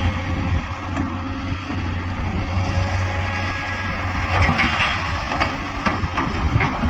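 A heavy loader's diesel engine running steadily. From about four seconds in there is a run of sharp metallic clanks and rattles.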